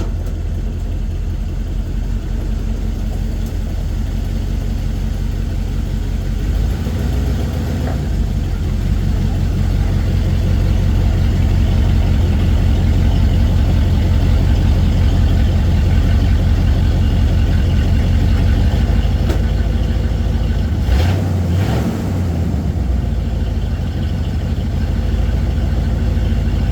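Chevy 350 small-block V8 in a square-body pickup running at a steady, rumbling idle, a little louder from about eight seconds in, with a brief change around twenty-one seconds. It is running on newly replaced fuel lines after a no-start.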